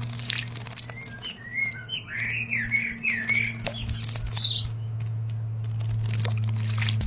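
Small aviary birds chirping: a quick run of short chirps about a second in and another call near the middle, with a few sharp clicks, over a steady low hum.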